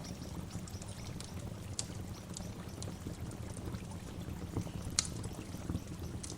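Waterfall: steady rushing water with scattered splashes and drips, one sharper splash about five seconds in.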